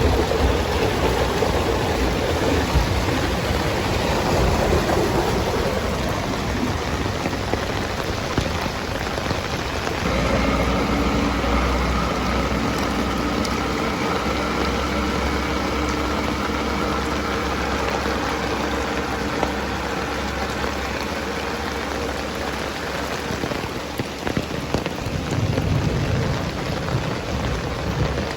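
Heavy rain falling steadily. About a third of the way in the sound shifts abruptly, and for roughly ten seconds a low rumble sits under the rain, with faint steady tones.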